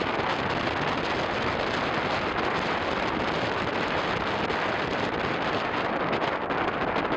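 Strong wind buffeting the microphone: a steady rushing noise.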